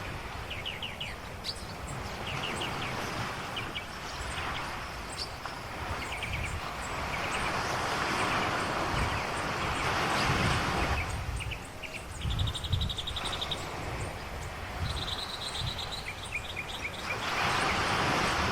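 Ocean waves washing in, swelling up and falling away every several seconds, with small birds chirping and giving quick trills over them.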